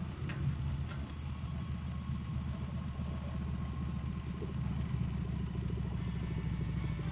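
Harley-Davidson Street Rod 750's V-twin engine running steadily, a low pulsing rumble.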